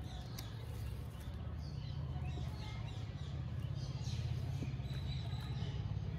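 Small birds chirping in short repeated calls over a steady low hum.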